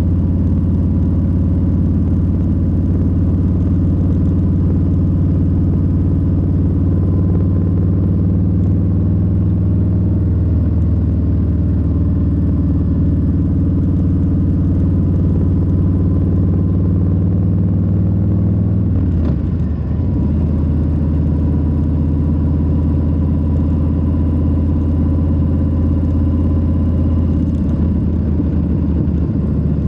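Harley-Davidson Low Rider S's Milwaukee-Eight 117 V-twin running steadily under way at cruising speed. About two-thirds of the way through its note briefly drops and picks back up.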